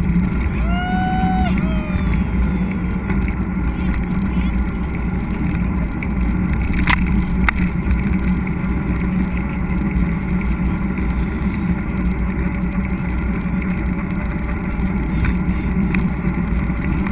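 Steady low rumble of wind buffeting a GoPro's microphone and tyres running over the trail while a mountain bike is ridden. A short high gliding call comes in the first couple of seconds, and two sharp clicks come about seven seconds in.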